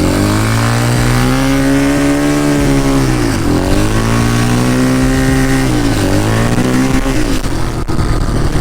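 ATV engine running under way, its revs dipping and climbing again three times. A brief sharp click near the end.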